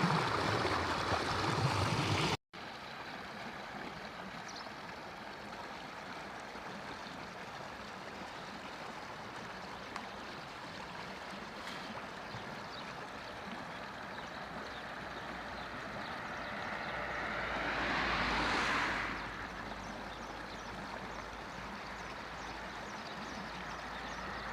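Steady rushing of a stream, louder for the first two seconds before a brief cut. About three-quarters of the way through, a whoosh builds and then fades over a few seconds.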